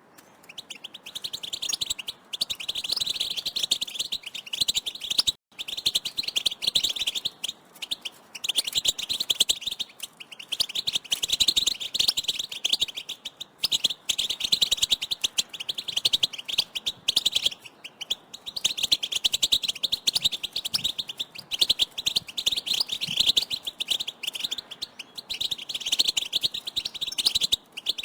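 European goldfinches calling and twittering in a dense, rapid run of high chirps, broken by a few short pauses, one a sudden drop to silence about five and a half seconds in.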